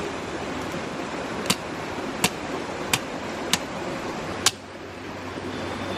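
Camera shutter clicks, about six of them at uneven intervals, over a steady rush of river water. About four and a half seconds in, the water noise drops and a low steady hum comes in.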